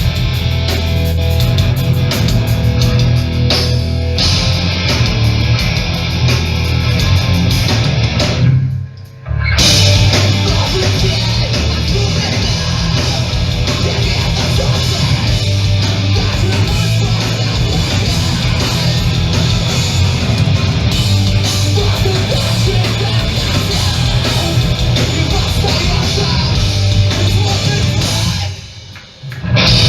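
A hardcore punk band playing loud and live. Twice the music drops out abruptly for about a second.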